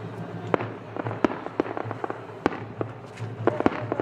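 Aerial fireworks bursting: irregular sharp bangs and crackles, with a quick run of reports near the end, over a steady low hum.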